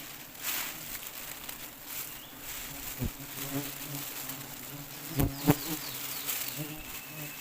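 A swarm of wild honeybees buzzing around the nest as it is harvested, with a few sharp knocks: one about three seconds in and a louder pair past the middle.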